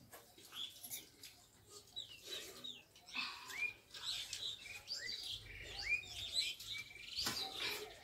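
Small birds chirping, many short quick chirps repeating, over light clicks of eating from steel plates, with a louder knock about seven seconds in.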